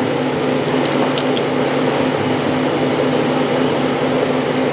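Steady mechanical hum of kitchen equipment, such as a ventilation fan or refrigeration unit, with a few light clicks of utensils about a second in.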